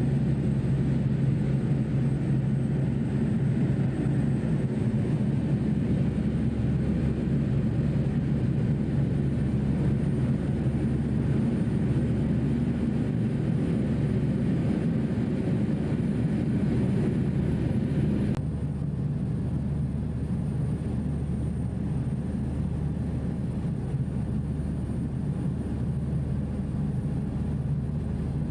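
Steady low drone of a passenger ferry's engines, heard on board, with a hum and a wash of noise. About two-thirds of the way through it changes abruptly, becoming duller and a little quieter.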